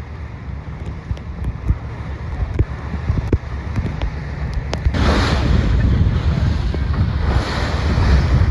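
Wind buffeting the microphone on a moving boat, over the wash of sea water. There are two louder rushing surges of water, one about five seconds in and another near the end.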